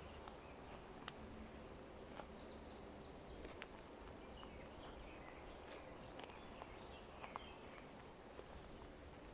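Faint forest ambience: a small bird calling in quick runs of short high chirps, with a few scattered small clicks over a soft steady background hiss.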